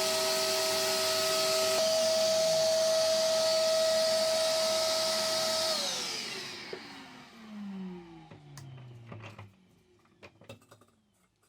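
Electric wire-brush power tool running steadily at speed with a whine. About six seconds in it is switched off, and the whine falls in pitch as it coasts down over a few seconds. A few light clicks follow near the end.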